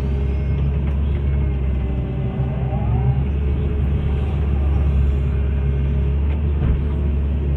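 Hitachi excavator's diesel engine running steadily, with a brief rising whine about two and a half seconds in.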